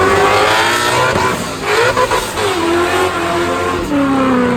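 A drift car's engine revving hard, its pitch swinging up and down and dropping near the end, over the noise of spinning, squealing tyres.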